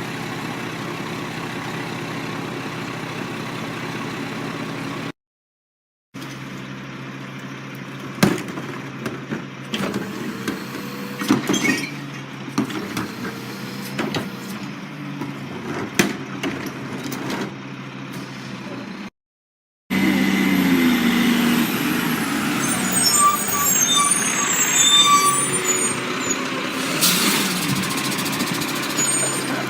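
Rear-loader garbage trucks running, heard in three short clips split by two brief drops to silence. The middle clip has several sharp metallic clanks, and the last is louder, with high squeals and chirps over the engine.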